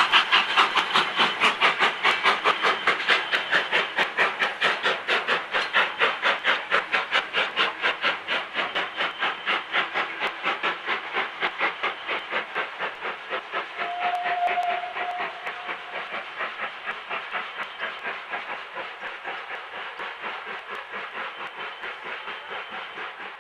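Steam tank locomotive working under steam, its exhaust beating in a steady, rapid chuff that slowly fades as it draws away. A short whistle note sounds about two-thirds of the way through.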